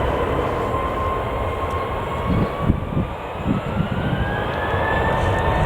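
Jet airliner engines running loudly, with a whine that rises steadily in pitch, typical of the engines spooling up. A few low thumps come about halfway through.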